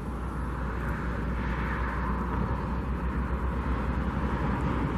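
Steady outdoor din of distant vehicle traffic, with wind buffeting the microphone as a low, fluttering rumble.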